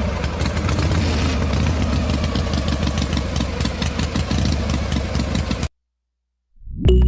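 Miniature toy diesel engine running steadily with a rapid, even clatter, then cutting off suddenly near the end.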